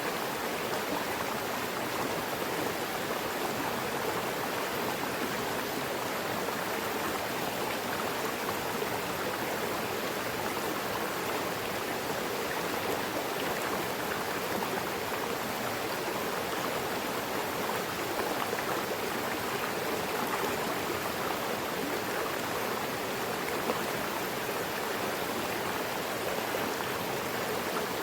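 Mountain river rushing steadily over rocks: a constant, even wash of water noise.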